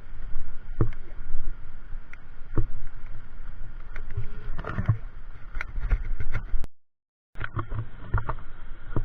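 Wind rumbling on the microphone of a moving motorcycle, with scattered knocks and bumps; the sound cuts out completely for about half a second about two-thirds of the way through.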